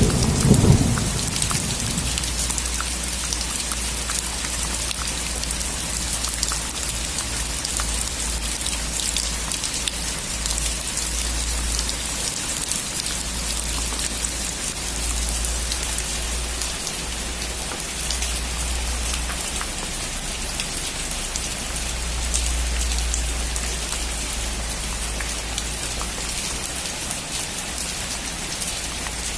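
Steady rain falling on a surface, an even hiss with dense patter of individual drops. A low thunder rumble dies away in the first second or two.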